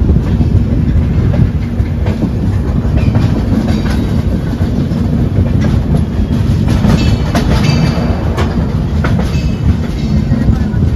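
Passenger coach rolling through the rail yard just after departure: a loud steady rumble of wheels on track. About seven to eight seconds in comes a run of sharp clacks and scrapes as the wheels go over rail joints.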